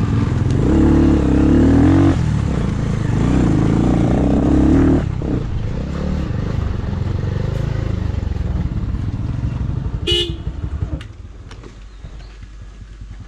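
Motorcycle engine revved hard twice in the first five seconds while climbing a rough dirt track, then running more quietly off the throttle and dropping lower near the end. A brief high-pitched tone sounds once about ten seconds in.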